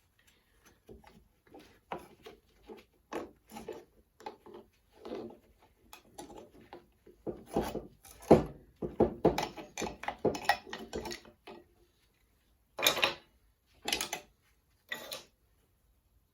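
Irregular knocks, scrapes and rubbing as metal parts of a classic Mini rear radius arm and hub are worked by hand, with a cluster of louder knocks in the middle and three separate knocks near the end.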